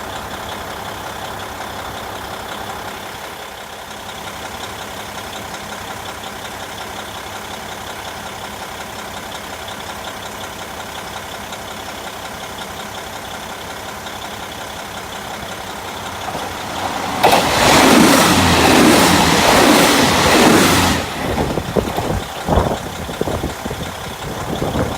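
KiHa 40 diesel railcar's engine idling steadily. About seventeen seconds in, a limited express diesel train passes through at speed: a loud rush of wheel and wind noise for about four seconds that then breaks up into uneven knocks while the idling goes on.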